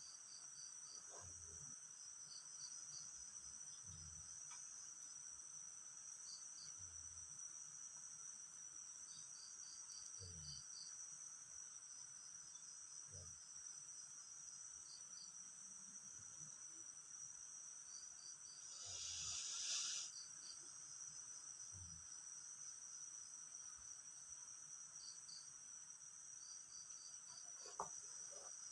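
Crickets chirping in short trilled bursts over a steady high insect drone. Faint low thuds come every couple of seconds, a brief rushing hiss swells and stops about two-thirds of the way in, and there is a sharp click near the end.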